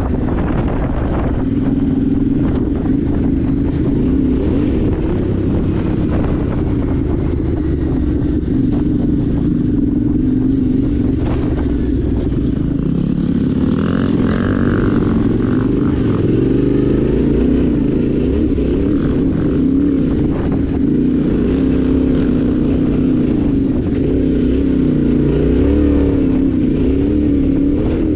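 Yamaha Ténéré 700's parallel-twin engine running steadily, its pitch rising and falling a little.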